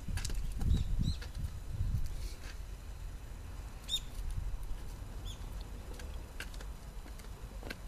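A small bird chirping a few times, each chirp short, high and dropping in pitch. Scattered light clicks and a low rumble, strongest in the first two seconds, lie beneath.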